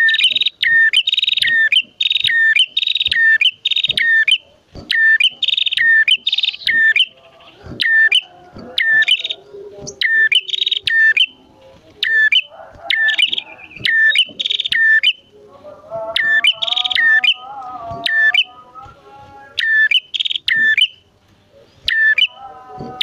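Male and female prenjak calling vigorously: rapid runs of loud, sharp, repeated high notes broken by short pauses. A lower warbling voice joins about eight seconds in and again around sixteen seconds.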